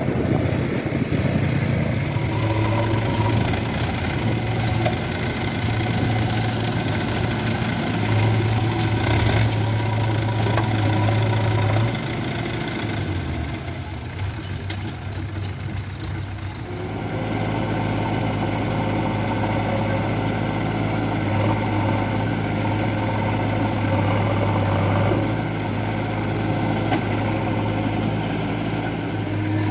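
Diesel engines of a JCB 3DX backhoe loader and Mahindra tractors running steadily while mud is loaded. The engine sound drops lower for a few seconds midway, then rises again.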